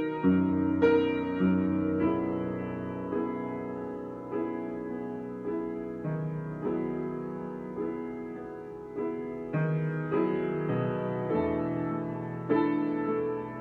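Solo piano improvisation at a slow pace: chords and notes struck about once a second, each left to ring and fade before the next.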